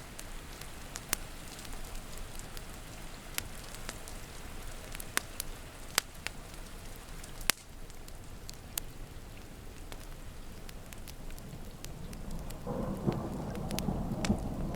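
Wood fire crackling, with sharp pops every second or so, over steady rain. A low roll of thunder builds near the end.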